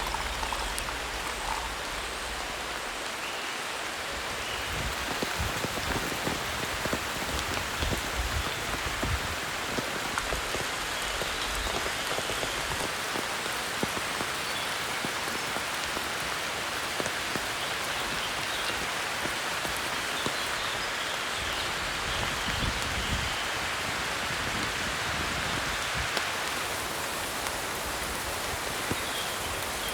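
Steady rain falling, with many small individual drop impacts heard throughout.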